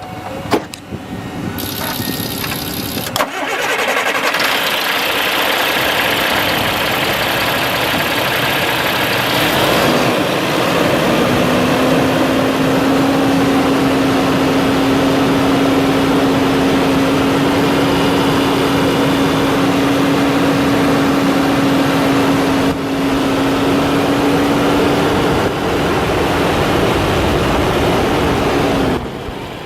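Caterpillar C7 diesel engine of a 2004 Ford F750 truck starting up about three seconds in and then running steadily. About ten seconds in a steady whine joins it and holds until near the end.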